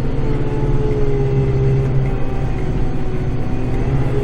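Kubota tractor's diesel engine running at a steady speed, heard from inside the closed cab.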